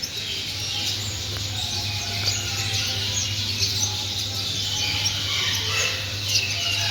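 Chorus of many caged small birds (goldfinches, canaries, redpolls and other finches) chirping and trilling at once, with a steady low hum underneath.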